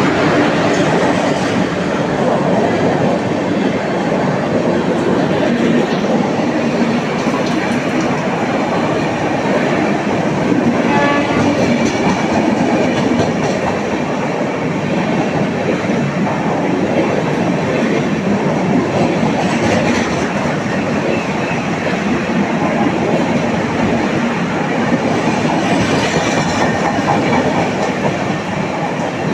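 Humsafar Express passenger train of LHB coaches running past, a steady loud rumble and rattle of wheels clicking over rail joints. A brief pitched tone sounds about eleven seconds in.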